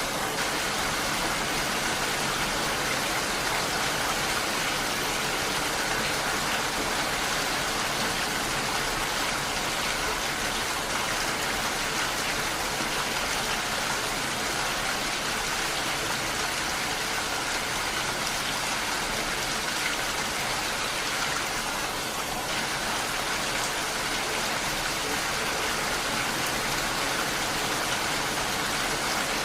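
Heavy rain falling steadily, a dense even hiss of drops with no break or change.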